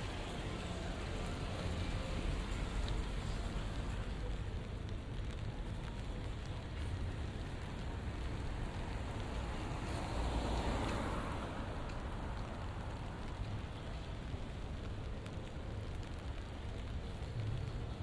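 Light rain falling on a wet city street, an even hiss over a steady low urban rumble. About ten seconds in, a broader whoosh of noise swells and fades.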